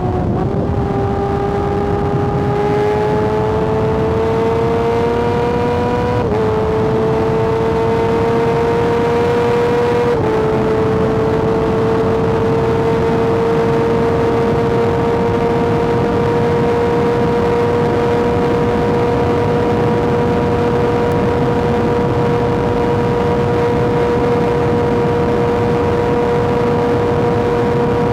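Kawasaki ZX-6R sport bike's inline-four engine at high revs under way, its pitch climbing steadily with two quick upshifts about six and ten seconds in, then holding at a steady high pitch.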